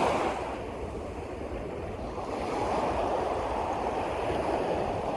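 Steady wash of waves and moving water, with some wind, with no distinct clicks or strokes.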